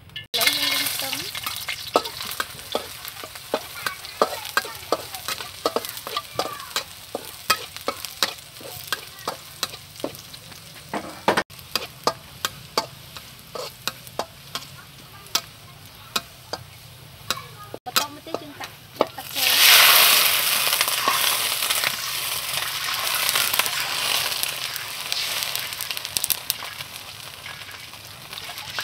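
Minced garlic frying in hot oil in a steel wok, sizzling while a metal spatula scrapes and taps against the pan. About twenty seconds in, liquid goes into the hot wok and the sizzle surges into a loud hiss that slowly settles.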